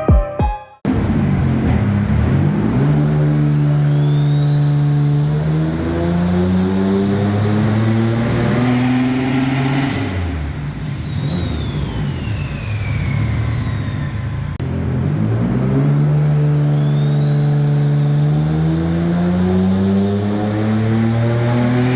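Subaru STI's swapped EG33 flat-six with a big turbo running on a dyno: revs climb steadily for about eight seconds with a high whine rising alongside, fall back around ten seconds in, then climb again near the end.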